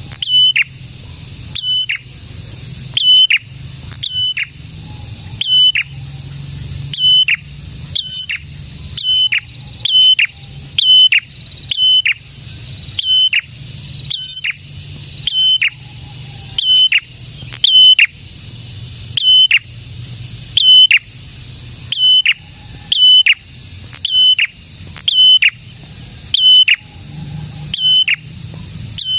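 A prenjak calls repeatedly, giving short sharp notes about once a second, often in quick pairs. Each note is held briefly high and then drops sharply at its end. A steady low hum runs underneath.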